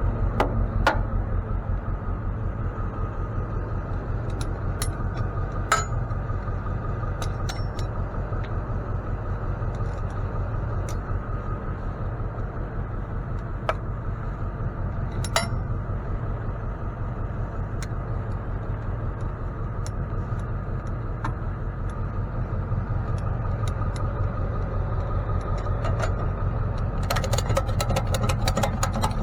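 Vehicle engine running steadily with an even low pulse, with scattered sharp clicks and a quick rattling run of clicks near the end.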